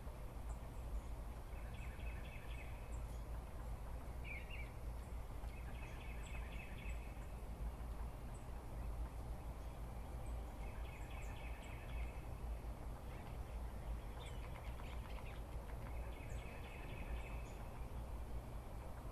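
A bird in the dawn chorus repeating a short pulsed trill of about a second and a half, roughly every four to five seconds, with brief high chips from other birds and a low breeze rumble underneath.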